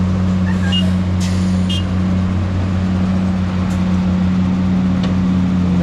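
A heavy vehicle's engine running steadily at a constant, unchanging speed, with a low drone. It is not revving.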